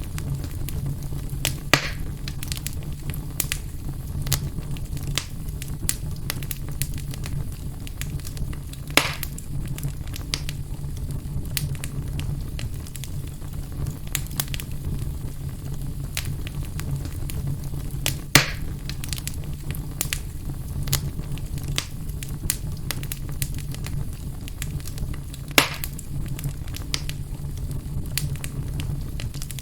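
Fire burning in a fireplace: steady crackling over a low rumble, with four louder pops spread through.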